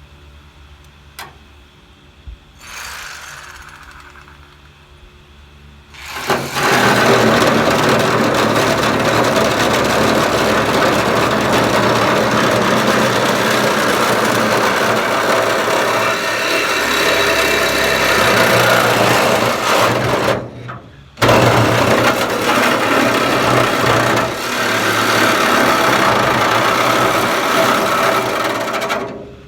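Power tool cutting through a sheet-steel pickup bed: a loud, harsh cutting noise that starts a few seconds in, breaks off for under a second about two-thirds through, then runs again until shortly before the end.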